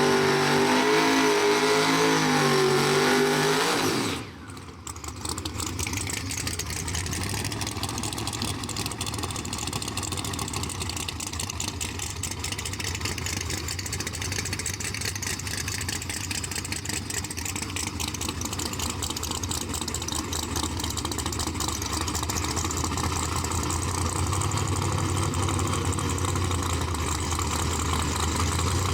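Drag racing car engine held at high revs with a wavering pitch for about four seconds, then cut off suddenly. It is followed by a steady rumbling idle that grows a little louder near the end.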